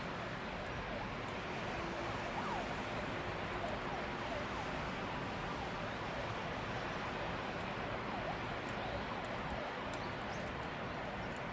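Steady rain falling, with many short, high chirps scattered over it.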